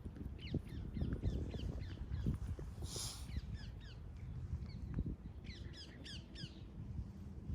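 Birds calling in a series of short, downward-slurred calls, bunched in quick runs in the first half and again near the end. Wind buffets the microphone with a steady low rumble, and there is a brief rush of hiss about three seconds in.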